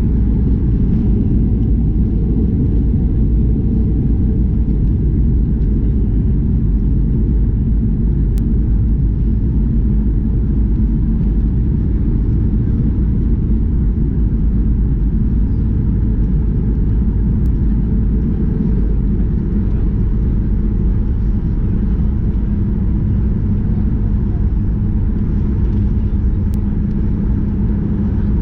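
Steady loud cabin rumble of a Boeing 737 MAX 8-200 airliner: engine and airflow noise heard from a seat inside the cabin, with no sudden changes.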